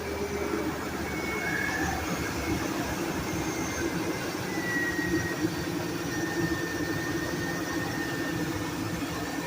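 1999 GMC Sierra 1500's 5.3-litre V8 idling steadily after its first start on a newly replaced fuel pump, running smoothly.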